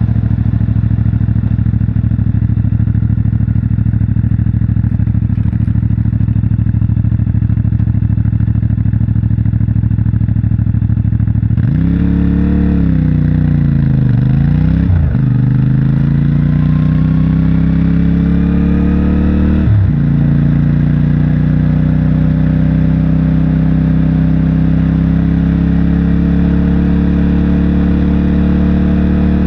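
CFMOTO 450MT's 449 cc parallel-twin engine through its stock exhaust, holding a steady note, then about twelve seconds in opening up: the revs rise and fall, dip sharply twice as it shifts gear, and climb steadily under acceleration.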